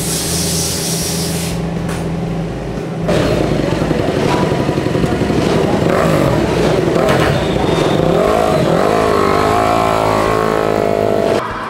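Background music, then from about three seconds in a J-GP3 race motorcycle's 250 cc single-cylinder four-stroke engine runs loud and is revved up and down several times.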